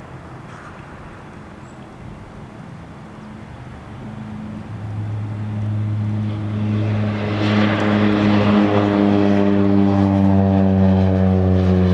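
Cessna 208B Super Cargomaster's turboprop engine and propeller, a steady droning tone that grows much louder from about four seconds in, with a rushing hiss at its loudest.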